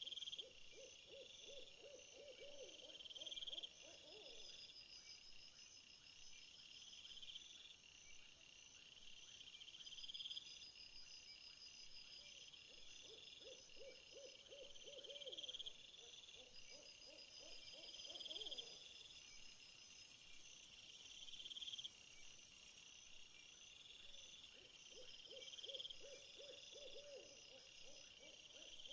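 Faint nature ambience: a low, rapidly pulsed trilling call, owl-like, repeated three times about twelve seconds apart, over steady rhythmic insect chirping. A high insect buzz joins for several seconds in the middle.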